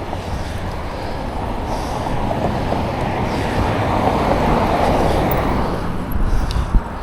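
Rushing noise of passing traffic heard from a moving bicycle, over a low wind rumble on the microphone; it swells to its loudest about four to five seconds in and eases off near the end, with a couple of light clicks.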